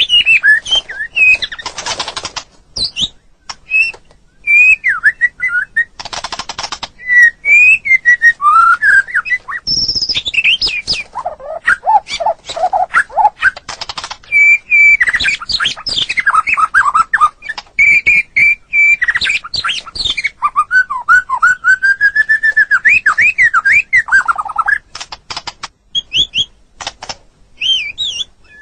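White-rumped shama (murai batu) singing a long, varied song of clear whistled phrases and pitch glides. Short rapid rattles come twice in the first few seconds, and a run of lower, mellow notes comes near the middle.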